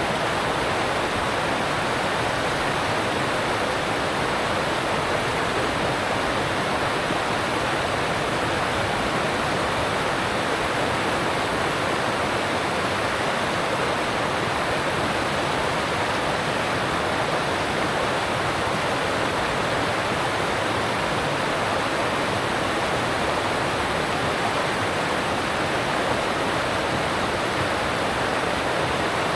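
Alpine stream rushing steadily over rocks: an even, unbroken wash of water noise.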